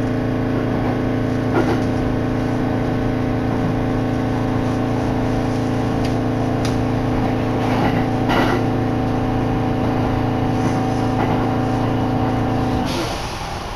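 Shin'etsu Line electric train running, heard from inside the carriage: a steady hum of several fixed pitches with a few faint knocks. The hum cuts off about a second before the end, leaving a rougher, quieter rumble.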